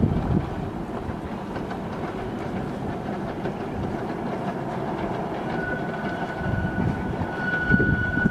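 A Romney, Hythe and Dymchurch Railway 15-inch gauge train running on the track with a steady clatter. A thin, steady high-pitched squeal joins about five and a half seconds in, with a couple of low knocks near the end.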